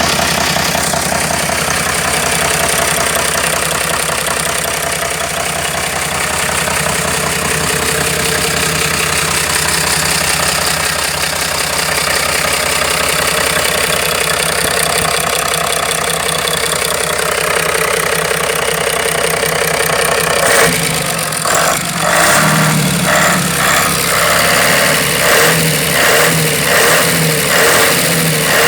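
Mercedes-Benz 1422 truck's OM441 V6 diesel engine running steadily at idle; about two-thirds of the way through the sound changes to a run of evenly spaced pulses, roughly one a second.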